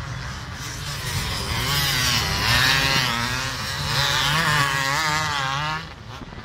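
Racing motorbike engine revving hard, its pitch climbing and falling several times as it goes through the gears, loudest in the middle. The sound drops away suddenly near the end.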